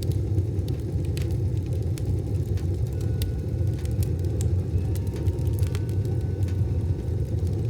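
Wood fire burning in a wood stove: a steady low rumble with scattered sharp crackles.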